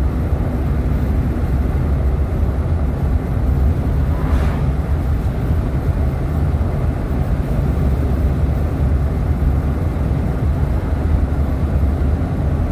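Road and engine noise of a moving car, heard from inside the cabin: a steady low rumble.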